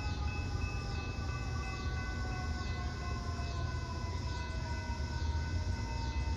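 Train rolling through the station: a steady low rumble with several steady high-pitched squealing tones and a whine that slowly falls in pitch.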